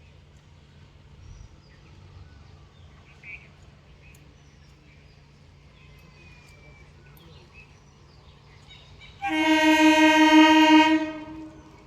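Local train's horn giving one steady blast of about two seconds, starting near the end; before it only faint background with a low steady hum.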